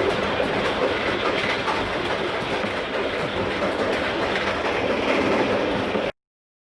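Passenger train passing through a station, a steady rumble of rolling stock on the track that cuts off suddenly about six seconds in.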